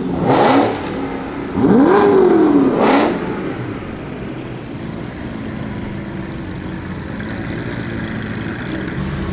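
A car engine revved hard twice, each rev climbing in pitch and dropping back, the second about two seconds after the first. It then settles into a steady lower rumble.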